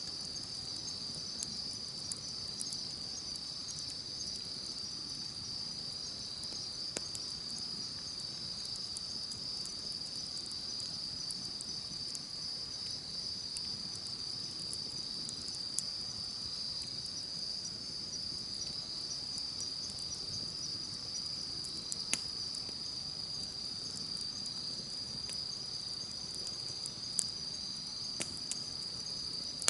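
Insects chirring in a steady high-pitched drone, with sparse crackles and pops from a wood campfire, a few louder pops standing out.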